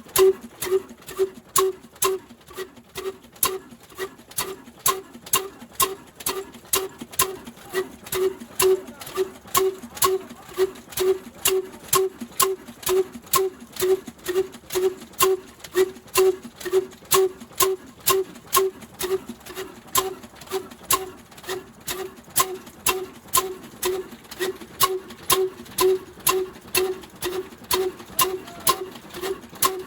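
Old black diesel engine driving a flour mill (atta chakki), running at a slow, even pace. It gives a regular beat of about two thumps a second, each with a sharp click.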